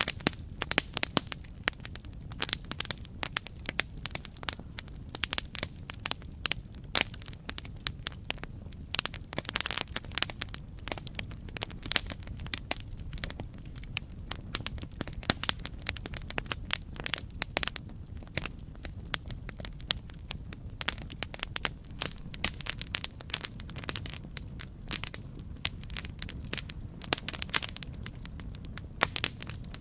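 Campfire crackling: a dense, irregular stream of sharp pops and snaps from burning wood over a steady low rumble of the flames.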